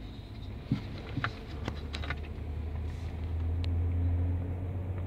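Nissan car engine idling with a steady low hum that swells a little in the middle. A sharp click comes near the start, followed by a few lighter ticks.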